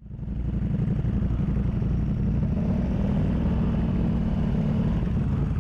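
Ducati Multistrada V4 Pikes Peak's V4 engine running steadily, a low pulsing engine note, heard from the rider's own bike. It fades in about half a second in.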